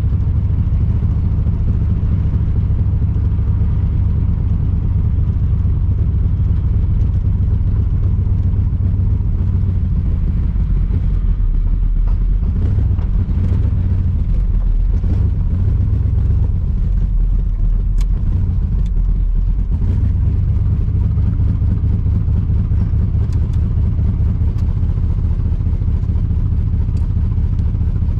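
1982 Camaro's 5.0 V8 running through freshly fitted mufflers on the road, a steady low exhaust drone. The drone drops lower for several seconds around the middle, then returns to its earlier pitch.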